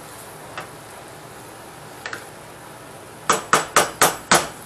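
A stirring utensil knocked against a large frying pan: two light knocks, then five sharp ones in quick succession, about four a second, near the end. Under it, the steady sizzle of ground beef and onions browning.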